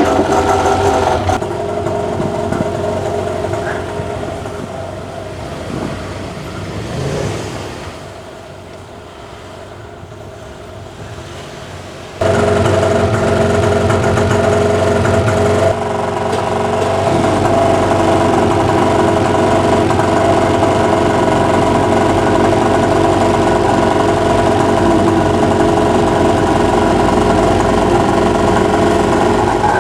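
Ski-Doo 850 E-TEC two-stroke snowmobile engine running just after a fresh start on its rebuilt motor. It runs steadily, drops off quieter for a few seconds, then comes back loud abruptly about 12 seconds in and holds.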